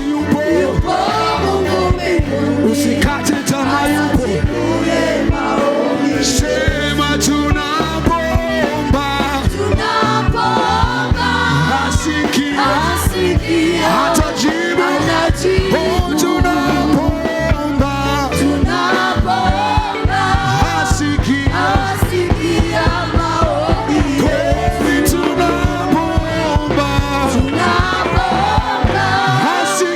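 Live gospel praise music: voices singing over a band with a steady drum beat and bass.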